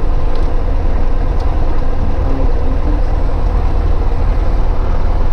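Cessna 152's four-cylinder Lycoming engine and propeller running steadily: a loud, even low drone.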